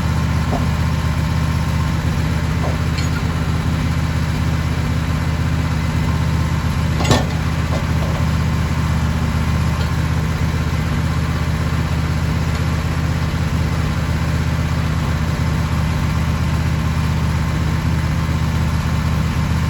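An engine running steadily at idle, with one sharp knock about seven seconds in.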